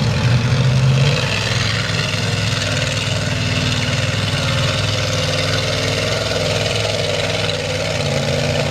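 Big mud-bogging mega truck engine running steadily at low revs, slightly louder for about the first second.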